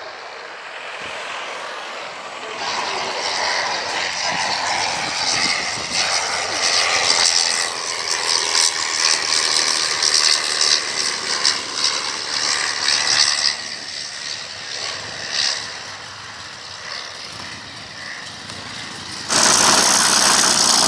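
An aircraft flying past, its engine noise swelling for several seconds and then fading. Near the end the sound jumps suddenly to a louder steady rush.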